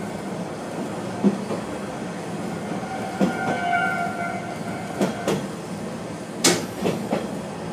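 Kishu Railway diesel railcar running over jointed single track, heard from the cab: a steady running noise with irregular clunks as the wheels cross rail joints, the loudest about six and a half seconds in. A faint, brief metallic squeal sounds about three seconds in.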